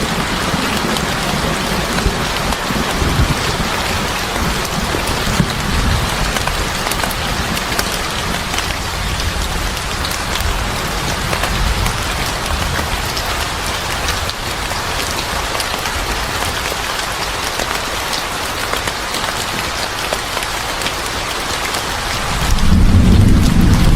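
Steady heavy rain pattering on a surface, with many small drop clicks. A low rumble that is faint early on swells in loudly about two seconds before the end.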